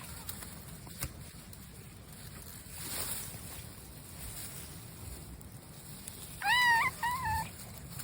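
A cat's meow about three-quarters of the way in: a drawn-out call that rises and falls in pitch, followed by a short second note. Steady low background noise runs under it.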